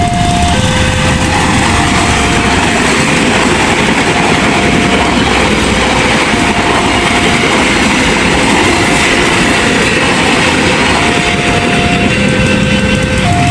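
A passenger train rushes past a level crossing at speed, its wheels clacking over the rail joints. Over it, the crossing's electronic warning alarm keeps repeating held tones of alternating pitch.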